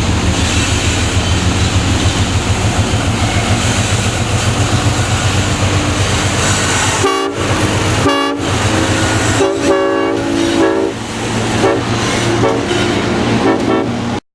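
Diesel freight train running with a steady low engine rumble; about halfway through, the locomotive horn sounds in a series of blasts, some short and one longer.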